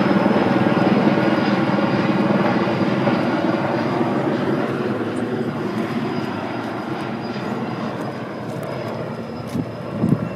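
Firefighting helicopter's rotor and turbine engine running, with a thin steady high whine over the rotor noise, gradually fading as it moves away.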